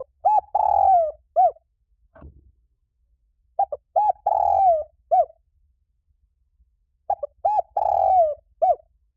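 Spotted dove cooing: a phrase of short coos around one longer coo that falls in pitch, given three times about three and a half seconds apart.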